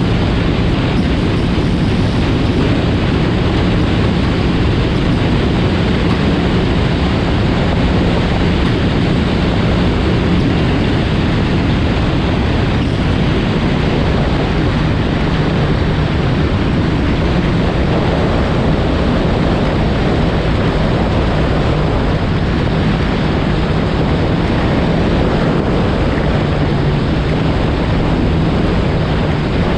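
2020 Yamaha FX SVHO personal watercraft, its supercharged four-cylinder engine and jet pump running at a steady cruising speed: a steady engine drone under loud rushing wind and water on the microphone.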